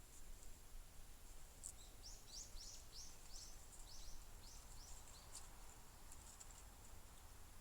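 A faint bird song: a quick run of about ten high notes, each sliding down in pitch, a couple of seconds in, over a quiet outdoor background with a few faint ticks.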